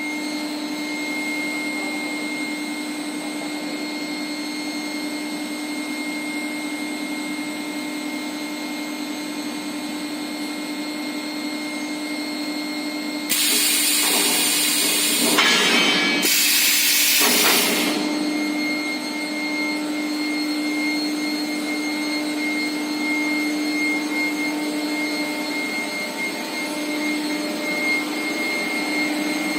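Induction heating furnace for thick-walled steel pipe running with a steady electrical hum, a constant low drone under several steady high whining tones. About halfway through come two loud bursts of hissing noise, each lasting a second or two, about three seconds apart.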